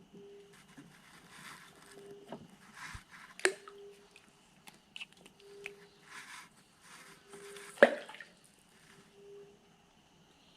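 Rustling handling noises with two sharp knocks, one about a third of the way in and a louder one about three quarters in, over a steady high tone and a low tone that pulses about once a second.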